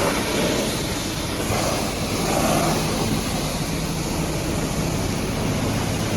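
Pressure-washer jet spraying water onto a truck: a steady hiss over a low, even hum.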